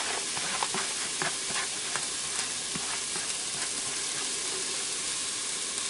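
Minced garlic and onion sizzling steadily in hot olive oil in a 6-quart electric pressure cooker on its sauté setting. Small scrapes and clicks in the first few seconds as the pieces are pushed off a plastic plate into the pot.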